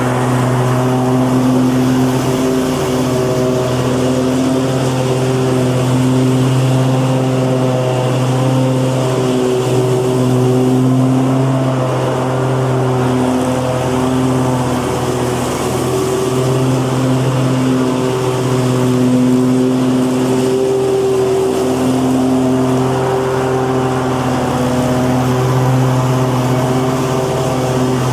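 Lawnmower engine running steadily at a constant speed, a continuous even drone with only slight wavering.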